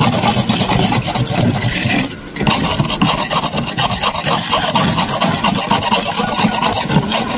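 Continuous rapid rasping and scraping strokes, with a brief pause about two seconds in.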